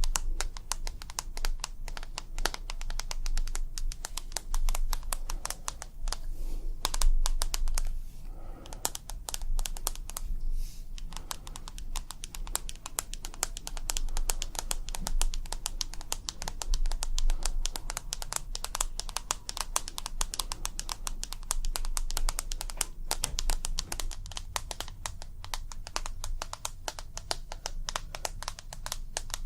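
ASMR tapping: a steady stream of rapid, dense taps and clicks, with brief pauses about eight and ten and a half seconds in.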